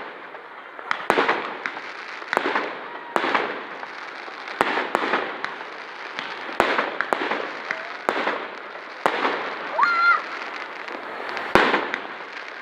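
Fireworks going off: a string of sharp bangs about once a second, each trailing into a rolling echo, the loudest near the end. A brief rising whistle sounds about ten seconds in.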